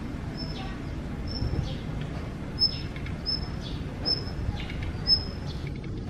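Daurian redstart giving short, high whistled calls over and over, about one every three-quarters of a second, which the uploader takes for the parent calling to its fledgling. A steady low rumble of background noise runs underneath.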